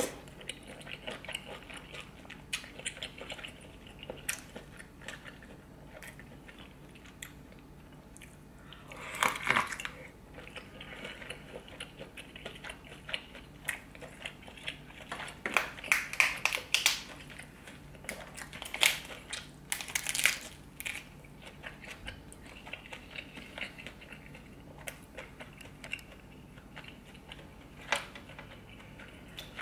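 Close-miked eating of a butter-drenched seafood boil: chewing with wet mouth clicks and smacks, in louder clusters about 9, 16 and 20 seconds in and a sharp smack near the end.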